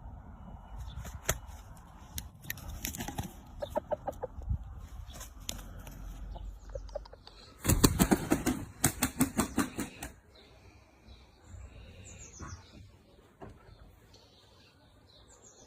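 Aseel game rooster flapping its wings hard in one rapid burst lasting about two seconds, about eight seconds in, with scattered scuffs and clicks before it.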